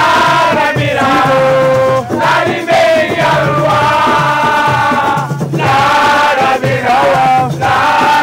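Loud chanted singing in a Senegalese language, with long held notes and short breaks about every second.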